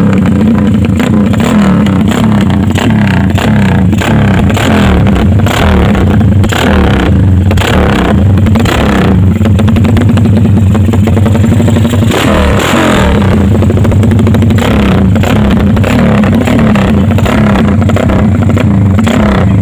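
Motorcycle engine running loud through an aftermarket exhaust, its engine speed rising and falling repeatedly as the throttle is worked.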